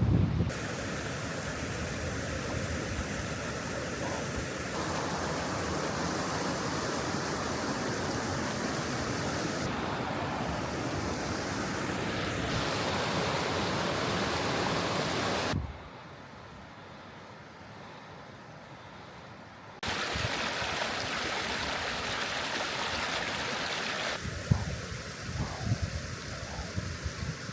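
Steady rushing of a mountain stream or waterfall, heard across several cut-together shots with a quieter stretch in the middle. Wind buffets the microphone in gusts near the end.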